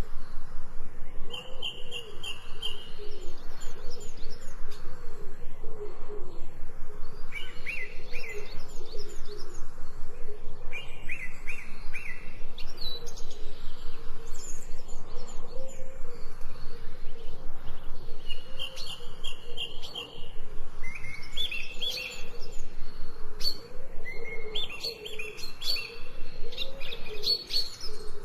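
Birds chirping and calling: short series of high chirps repeated again and again, several series overlapping toward the end.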